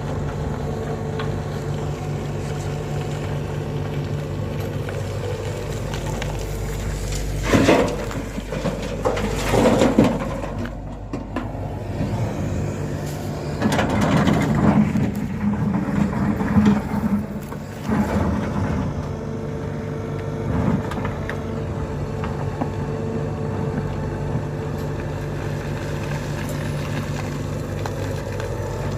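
Tata Hitachi 120 hydraulic excavator's diesel engine running steadily while it loads a truck, with loud crashing bursts about 8 and 10 seconds in and a longer rough rumble from about 14 to 17 seconds, as a bucket load is worked and dumped.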